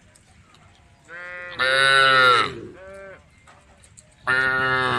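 A cow mooing: a long loud call, a short one after it, and another loud call beginning near the end.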